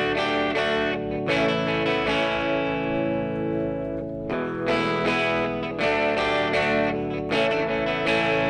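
Background music: guitar, with new notes and chords plucked every second or so over a sustained low note.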